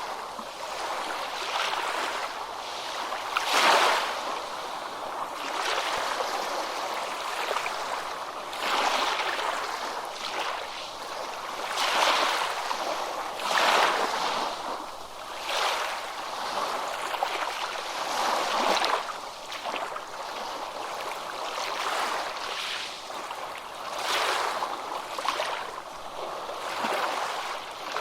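Ocean waves breaking and washing onto a beach: a continuous hiss of surf that swells and eases every couple of seconds, loudest about four seconds in.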